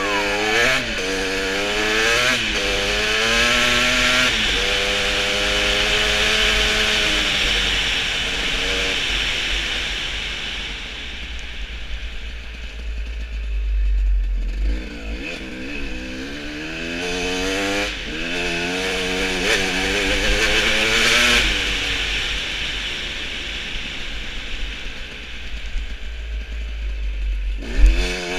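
Motorcycle engines revving up and down repeatedly under hard acceleration, with a heavy low rumble underneath.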